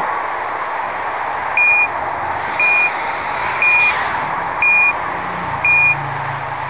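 A truck's warning beeper sounds a short high tone about once a second, pattern typical of a reversing alarm, over steady engine and road noise. There is a brief hiss about four seconds in.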